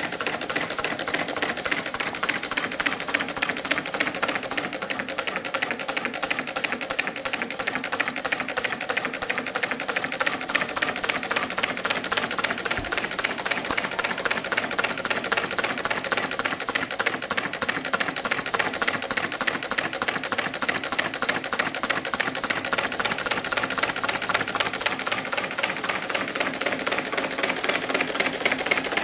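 Meccano-built Stirling engine running steadily: a rapid, even clatter from its metal crank, linkages and the gears driving the output shaft.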